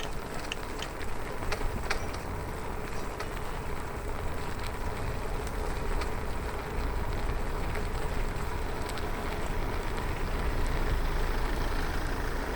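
Bicycle riding along a road: wind rushing over the microphones with tyre noise and a faint steady hum, a few light clicks in the first seconds, growing louder about halfway through.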